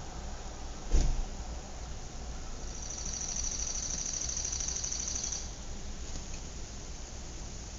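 Suburban outdoor ambience: a steady background hum and hiss, a single sharp knock about a second in, then a high, rapidly pulsing trill for about three seconds before it stops.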